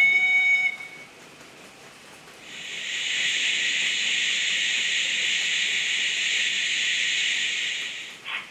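A DCC sound-fitted 00 gauge model steam locomotive: a short whistle blast, then a steady steam hiss lasting about five seconds, and a short puff near the end.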